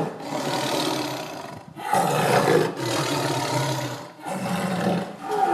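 Big cat growling: a run of long, rough growls broken by short pauses.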